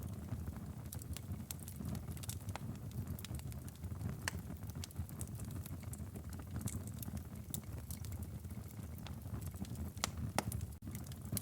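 Wood fire burning in a fireplace: a steady low rumble of flames with irregular sharp crackles and pops from the burning firewood, a couple of louder pops near the end.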